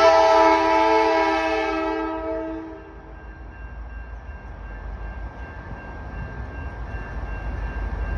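A CN freight locomotive's air horn sounds a multi-note chord that fades out about three seconds in. The low rumble of the approaching diesel-hauled train then builds steadily.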